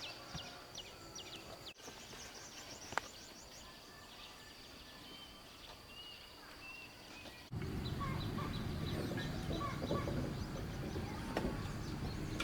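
Birds chirping and calling over background noise, in short repeated calls; about seven and a half seconds in, the background noise becomes much louder while the calls go on.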